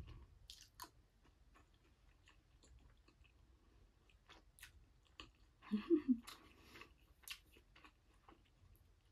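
Close-up chewing and mouth sounds of someone eating curry and rice, with scattered small clicks of a plastic spoon in a plastic takeaway tray. A louder cluster of mouth sounds comes about six seconds in.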